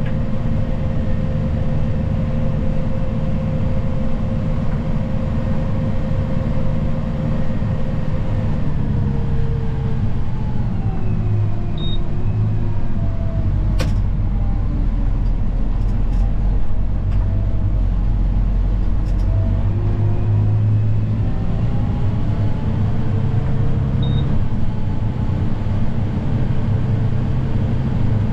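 Snow plow vehicle's engine running steadily, its pitch rising and falling as the engine speeds up and slows down through the middle. A few sharp clicks come in the middle.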